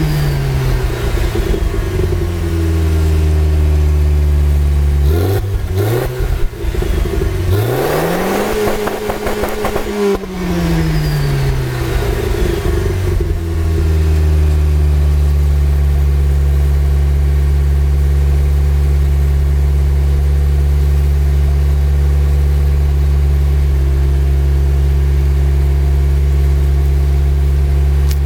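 VW Passat B3's 1.8 RP four-cylinder engine and exhaust, running on LPG, revved while stationary. The revs fall back at first, a short blip comes about five seconds in, then a climb to high revs held choppily against the rev limiter for about two seconds. After that the revs drop back and it idles steadily.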